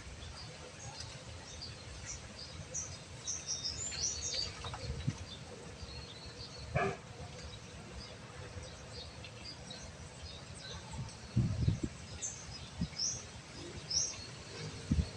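Small birds chirping in short, scattered high calls over a steady background hum, with a few dull knocks.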